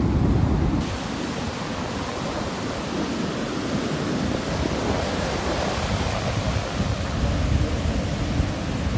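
Ocean surf breaking and washing on a beach, a steady rushing hiss that grows fuller about a second in, with wind rumbling on the microphone.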